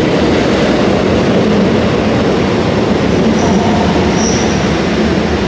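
JR Hokkaido H-100 (DECMO) diesel-electric railcar moving at the station: a steady loud rumble of running gear and motor, with a brief high wheel squeal about four seconds in.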